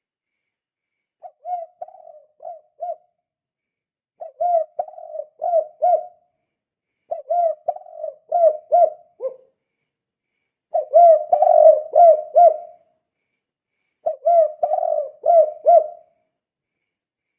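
Spotted dove (tekukur) cooing in the two-'kuk' style: five phrases of several short notes each, one phrase about every three seconds with pauses between.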